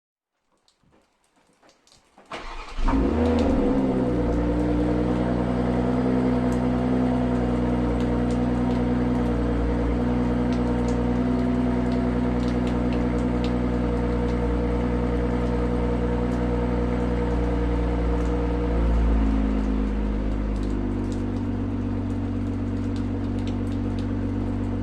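2020 BMW M340i's stock 3.0-litre turbocharged B58 inline-six starting from cold: a few faint ticks, then it catches about two seconds in with a short rev flare and settles into a steady high cold idle. Near the end the idle drops to a lower, steady pitch after a small blip.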